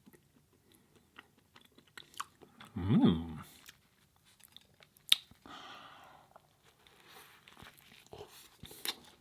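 A person chewing and biting food close to the microphone: soft wet mouth clicks and crunches throughout. About three seconds in there is a short hummed sound from the eater, the loudest moment, and just after five seconds a sharp click followed by a soft breathy hiss.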